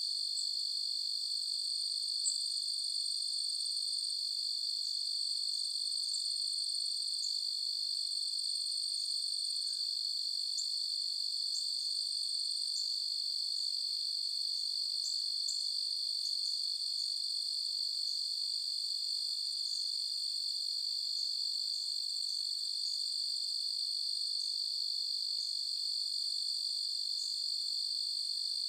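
A chorus of crickets trilling steadily at a high pitch, with many short, higher chirps scattered over the continuous trill.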